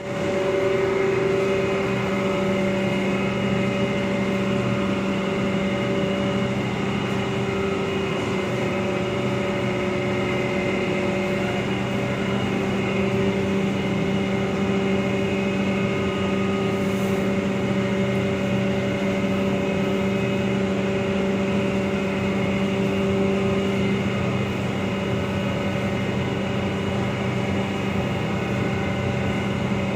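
Rice husk grinding machine running steadily: a constant mechanical hum with several steady tones over a noisy rush.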